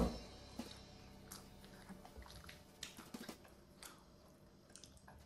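Close-up chewing of burgers, with faint wet mouth clicks and soft squishes. It opens with one sharp, loud knock.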